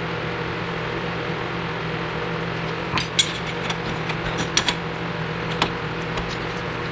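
Steady machine hum, with a scattering of sharp metallic clicks and knocks from about three to five and a half seconds in.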